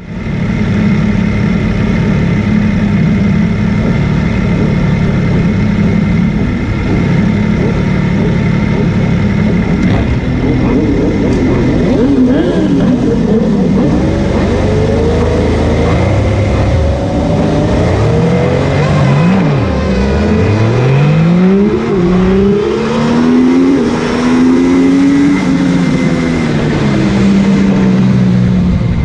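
MV Agusta F3 three-cylinder sportbike engine heard onboard during a motorcycle race. For about the first ten seconds it holds a steady note. It then revs up and down repeatedly, with several engine notes rising and falling over one another, which points to other race bikes close by.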